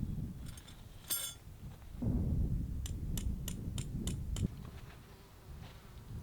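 Low wind rumble with a single light ringing clink, then six quick sharp clicks about three a second.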